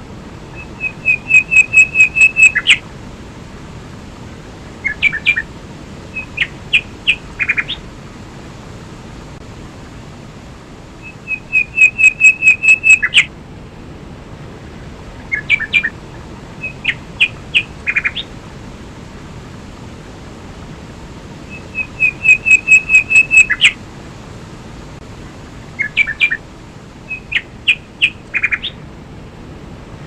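A songbird sings the same phrase three times, about ten seconds apart. Each phrase is a rapid trill of about ten even notes followed by a few short separate notes. Underneath runs the steady rush of a waterfall and stream.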